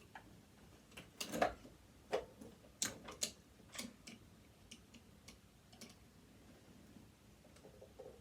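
Screwdriver clicking and scraping against a screw and the metal parts of a sewing machine being taken apart, in faint, irregular clicks with a few louder ones in the first half.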